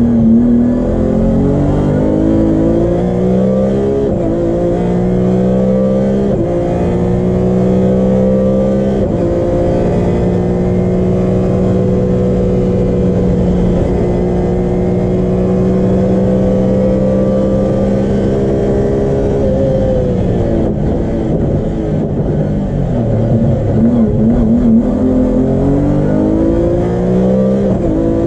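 BMW E36 M3's 3.0-litre straight-six engine, heard from inside the cabin, pulling hard through the gears with an upshift about every two seconds, then held at steady high revs for about ten seconds. Around two-thirds of the way through the revs fall as the car slows, with quick throttle blips on the downshifts, and then climb again as it accelerates out.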